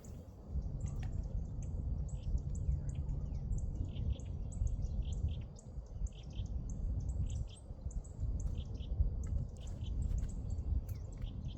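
Many short, high bird chirps repeating throughout, over a steady low rumble.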